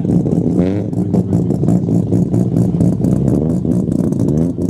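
A Mazda RX-7's rotary engine running with a choppy, rapidly pulsing exhaust note, the "brap" of a rotary. The revs rise briefly about half a second in and again near the end.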